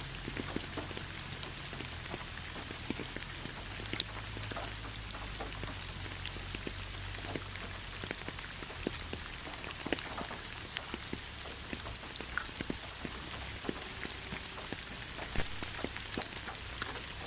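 Steady rain falling on a surface, with many separate drops ticking irregularly through an even hiss.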